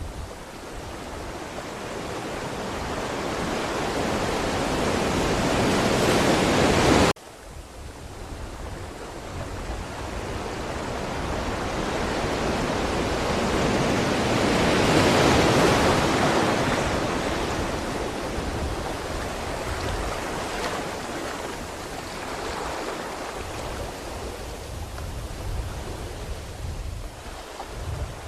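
Ocean surf: waves rushing and washing ashore in long swells. One surge builds for several seconds and cuts off abruptly about seven seconds in, and another swells to a peak midway and slowly fades.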